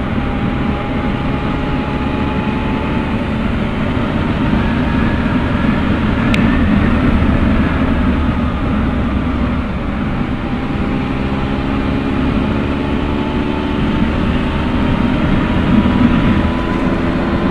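Triumph Explorer motorcycle's three-cylinder engine pulling steadily on the open road, over wind and road noise. The engine note climbs gradually, eases off about halfway through, then climbs again.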